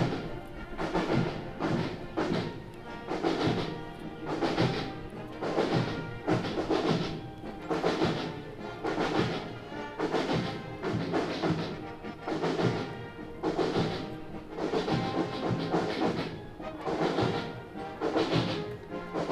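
Military marching band playing a march, with a steady, even drum beat under the band.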